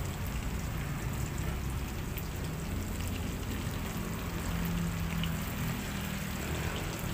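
Pork belly and garlic frying in hot oil in a wok: a steady sizzle with small crackling pops, over a low hum.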